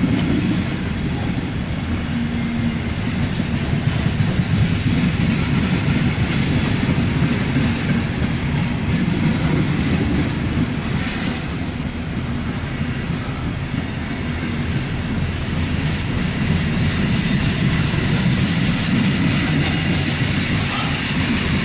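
A loaded coal train's hopper cars roll past at steady speed, making a continuous low rumble of steel wheels on rail. A faint high wheel squeal joins in during the second half.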